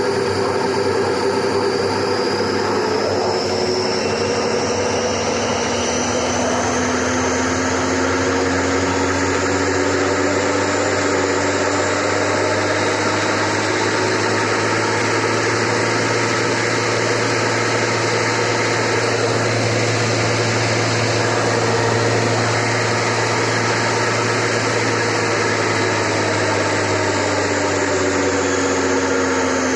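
Steady running whine and drone from worn, failing bearings. Its pitch rises slowly over the first dozen seconds, holds, then sinks again toward the end, as the bearings' speed changes.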